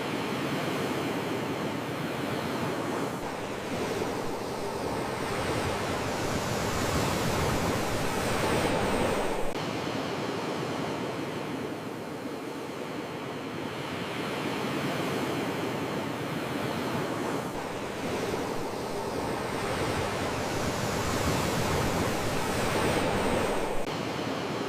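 Sea waves washing in on a shore: a steady rush of surf that swells twice, each swell building and then falling away quickly.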